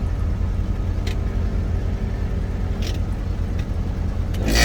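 International 4900 truck's diesel engine idling steadily. Near the end a louder burst with a steady tone rises over the engine, which the seller puts down to something jammed in the engine fan.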